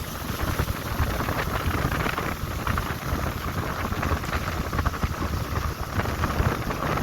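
Wind buffeting the microphone: a steady low rumble with crackling.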